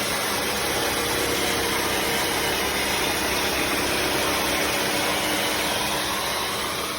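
Bissell CrossWave HydroSteam wet-dry vacuum running: a steady rushing whir of its suction motor and brush roll, with a faint hum, dying away near the end.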